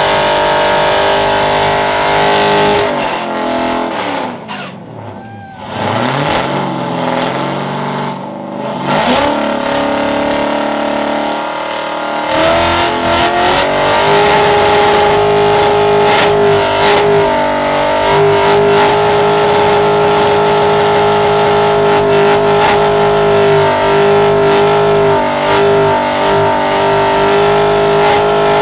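A car engine revving hard: its pitch falls and climbs again in the first several seconds, then from about twelve seconds in it is held at a steady high pitch.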